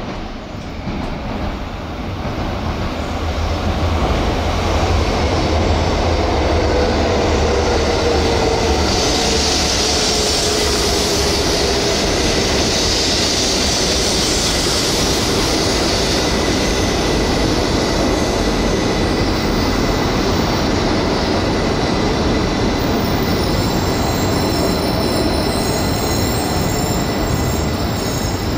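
Jōetsu Shinkansen train running along the station tracks: a loud, steady rush of wheels on rail that builds over the first few seconds and then holds, with a faint whine that falls slightly in pitch.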